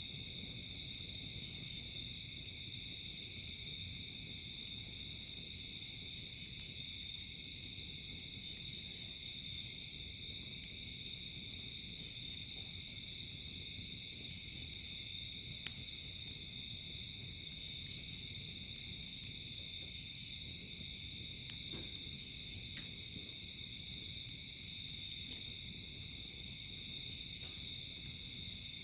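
Steady chorus of crickets and other night insects calling, with a pulsed high call repeating every few seconds. A few sharp pops from the crackling campfire stand out, twice close together about three quarters of the way through.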